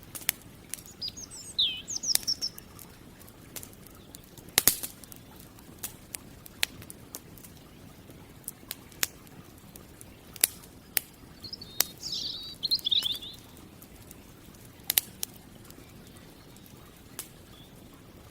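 Campfire crackling with irregular sharp pops, one louder crack a few seconds in. A songbird sings two short chirping phrases, one near the start and one about twelve seconds in.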